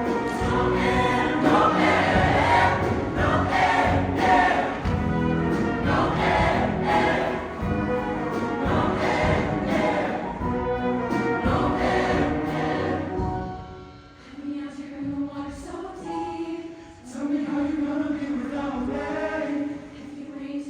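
Show choir singing in full harmony over a live show band. About two-thirds of the way through the accompaniment falls away and the voices carry on softer in held chords.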